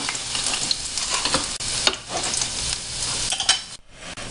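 Garlic cloves frying in hot oil in a pan: a steady sizzle with many sharp crackles and pops, dropping out briefly near the end.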